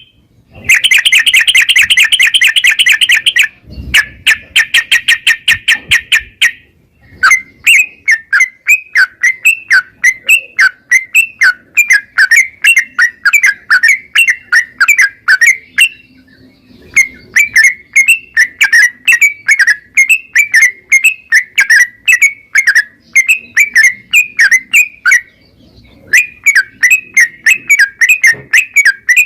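Yellow-vented bulbul (trucukan) singing loudly and continuously in rapid, bubbling phrases, opening with a fast trill, with short breaks about a quarter, half and five-sixths of the way through.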